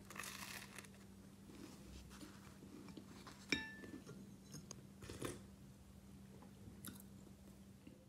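Soft, faint chewing and biting of a bread sandwich over a faint steady hum. A single light clink of dishware rings briefly about three and a half seconds in, and smaller clicks follow later.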